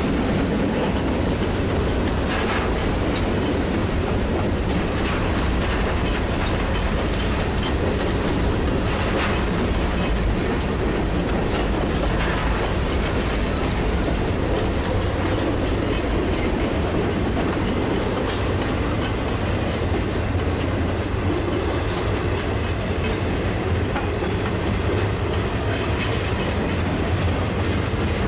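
Freight train cars rolling past close by at steady speed: a continuous rumble of steel wheels on the rails, with scattered clicks and clanks as the wheels cross rail joints.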